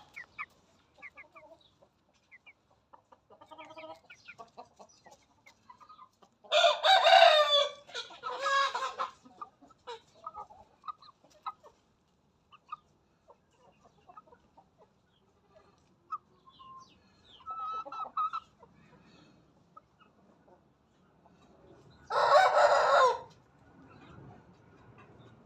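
Aseel (Indian game) hen crowing like a rooster. One crow comes about seven seconds in and another about twenty-two seconds in, with soft clucking between.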